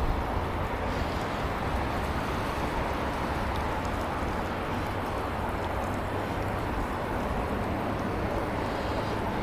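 Steady wind noise on the microphone and tyre rumble from a bicycle riding along a road, an even rushing with no distinct events.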